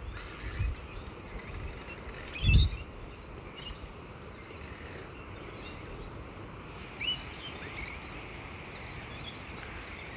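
Scattered short bird chirps and rising whistled notes over a steady outdoor background, with a brief low thump about two and a half seconds in.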